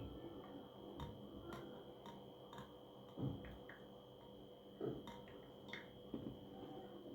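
A few light, scattered clicks and two or three soft knocks, over a faint steady high-pitched tone.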